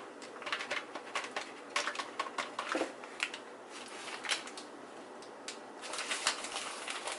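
Light, irregular taps, clicks and rustles as cornstarch is sprinkled from a container over oiled, floured chicken pieces in a bowl.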